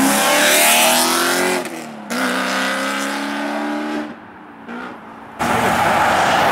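Sports car engines accelerating in short edited clips: one car's engine note rises as it pulls away and cuts off abruptly, a second engine note follows and also stops abruptly, then after a short lull a loud steady rush of noise comes in.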